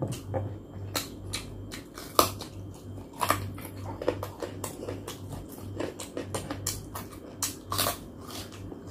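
Close-miked chewing and eating: wet mouth smacks and small crunches at irregular intervals, over a steady low hum.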